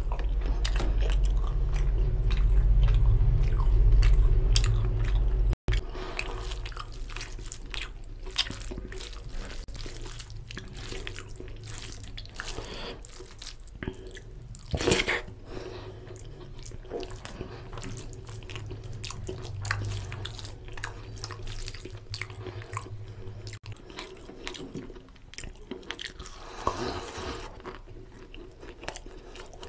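Close-miked chewing of mouthfuls of mutton curry and pulao rice eaten by hand, with many wet mouth clicks and smacks. A loud low rumble fills the first five seconds and cuts off abruptly.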